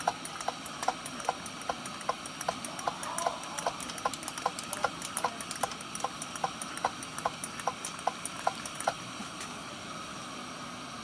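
Kerosene pressure lantern: quick, even clicks of its hand pump, about three strokes a second, over a steady hiss. The pumping stops about nine seconds in and the hiss carries on.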